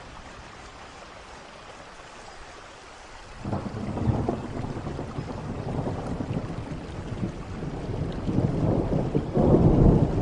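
Steady rain falling, then about three and a half seconds in a roll of thunder breaks in with a deep rumble that keeps building, loudest near the end.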